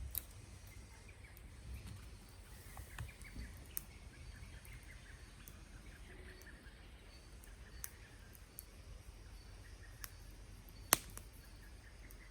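Wood campfire crackling with scattered sharp pops, the loudest about eleven seconds in, over faint birdsong.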